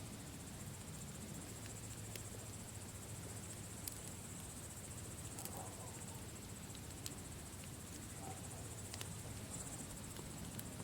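Campfire crackling with a few sharp pops, under a steady high trill of crickets.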